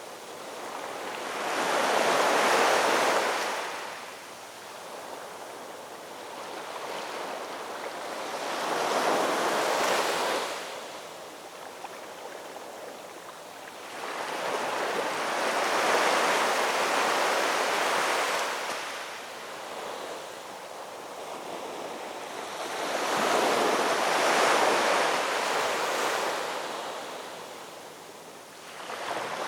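Ocean waves breaking on a shoreline. Four waves in a row, each a swelling then fading rush of surf, about seven seconds apart.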